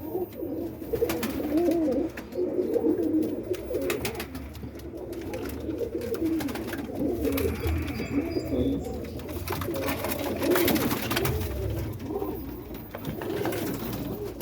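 Many roller pigeons cooing together in the loft, their coos overlapping continuously, with scattered clicks and rustles.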